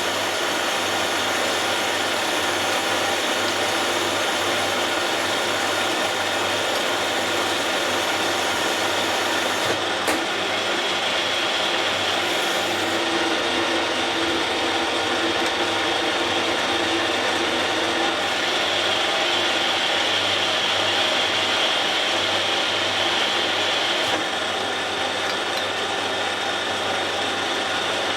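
A geared machine tool running steadily, with a continuous whirr of meshing gears and a few shifts in tone.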